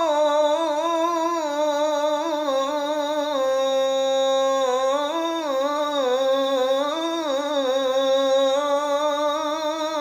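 A man's voice chanting the Islamic call to prayer (adhan), drawing out the last syllable of "Allahu akbar" in one long unbroken melismatic line that winds up and down in pitch with fine ornaments.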